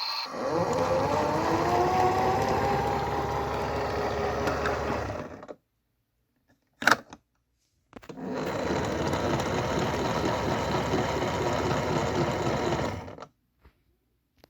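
A small washing machine's motor turning the drum. It speeds up with a rising whine, runs steadily and stops about five seconds in. A single sharp click follows, then the motor runs again for about five seconds and stops.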